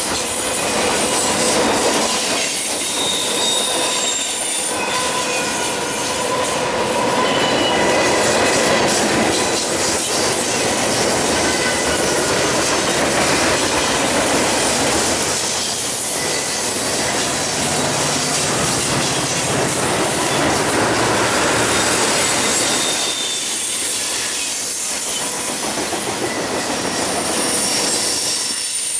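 Cars of a manifest freight train rolling past, their steel wheels running loudly and steadily on the rails. Thin high wheel squeals drift over the noise, some holding a pitch and some sliding briefly up or down.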